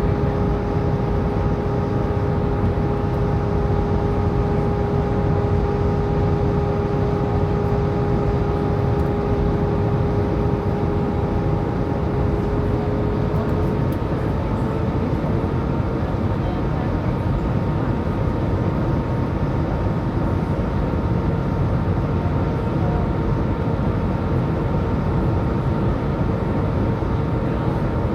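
Jet airliner in descent heard from inside the passenger cabin: a steady rush of air and engine noise with a few steady whining engine tones, which shift slightly higher in pitch about halfway through.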